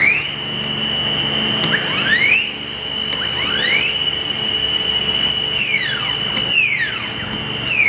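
CNC router motors driven by their drivers: a high-pitched whine that rises at the start, holds steady and falls away near the end, with several other tones sweeping up and down as the motors speed up and slow down.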